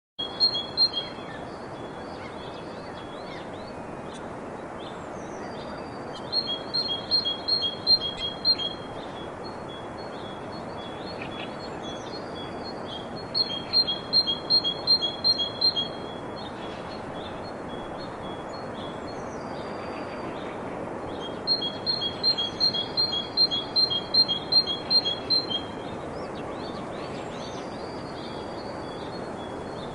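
Birdsong: one bird repeats a fast series of high paired notes, about four a second, in runs of two to four seconds that come back every seven seconds or so. Short high down-slurred whistles fall between the runs, over a steady background hiss.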